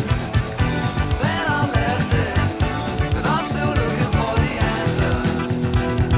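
Blues-rock music with a lead electric guitar playing bent, sliding notes over bass and a steady drum beat.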